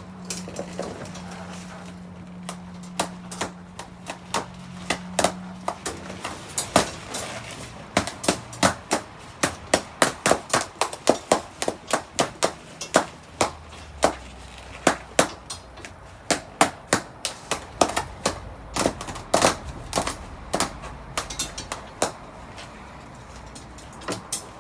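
Balloons popping one after another, often two or three sharp pops a second, with a steady low hum under the first few seconds.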